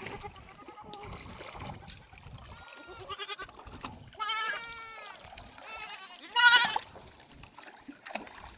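Sheep and goats of a herd bleating, about five separate quavering calls that overlap one another. The loudest comes about two-thirds of the way through.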